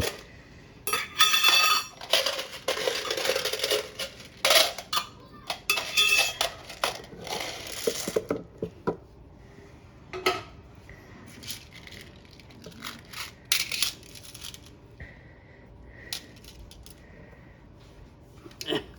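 Metal parts and screws clattering and clinking as they are handled during dryer reassembly: a dense run of rattling for the first half, then scattered single clicks and knocks.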